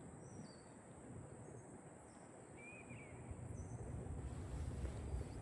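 Songbirds chirping faintly in the background: several short, high chirps and one warbled call about three seconds in. A low rumble grows louder through the second half.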